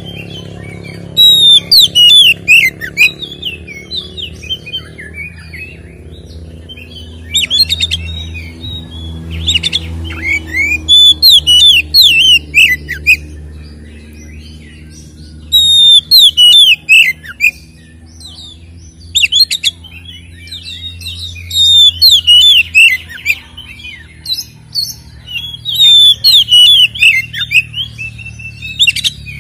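Oriental magpie-robin (kacer) in loud fighting song: about seven bouts of rapid, varied phrases with quick downward slurs, separated by short pauses, over a steady low hum.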